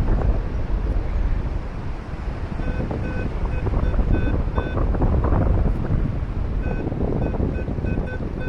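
Wind rushing over the microphone in flight under a paraglider. About three seconds in, a flight variometer starts beeping in quick, short pulses, the tone it gives when the wing is climbing in lift.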